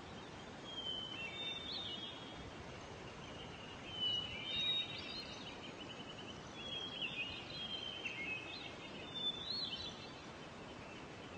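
Faint bird song: several short chirping phrases with quick trills, spaced a second or two apart, over a steady low hiss.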